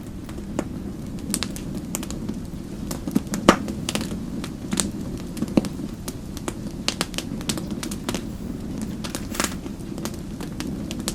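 Wood fire crackling in a fireplace: irregular sharp pops and snaps over a steady low rumble of the flames. The loudest pop comes about three and a half seconds in.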